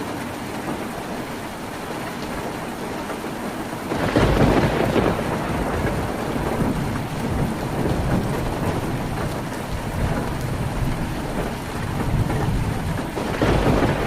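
Heavy rain drumming on a tin roof as a steady hiss, with a deep rumble of thunder that swells suddenly about four seconds in, rolls on, and surges again near the end.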